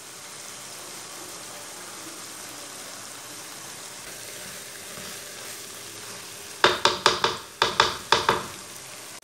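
Steady sizzling of chicken curry cooking in oil in a steel kadai. Near the end, a quick run of about six sharp ringing clinks cuts across the sizzle and is the loudest sound.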